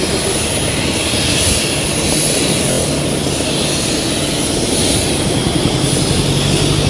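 Airliner engines running steadily: a loud continuous rumble with a high, steady whine over it.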